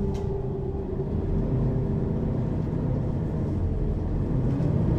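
Mercedes-Benz Citaro city bus (ZF Ecomat 2 6HP-592 C automatic gearbox) driving, heard from inside over the second axle: a steady engine and driveline drone with road rumble. The sound grows a little louder near the end as the bus pulls harder.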